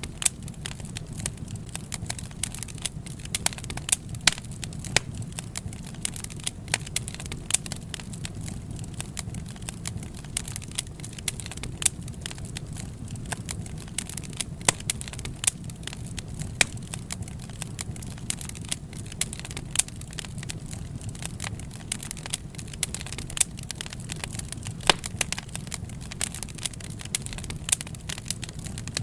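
Wood fire crackling steadily: dense irregular pops and snaps over a low rumble of flames, with a few louder cracks now and then.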